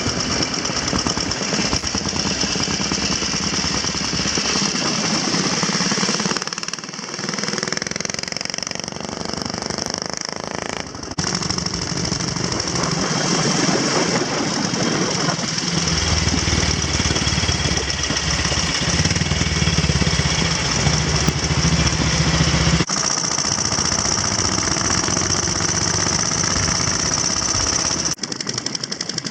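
Antique motorcycle engines running, with a rapid knocking beat. The sound changes abruptly several times, as one clip gives way to another.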